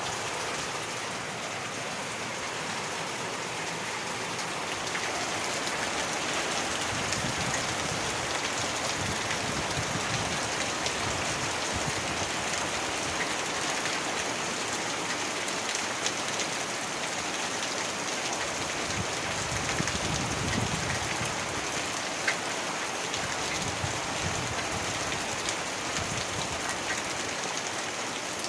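Heavy rain falling steadily, with scattered sharp drop hits and low rumbles that swell and fade now and then.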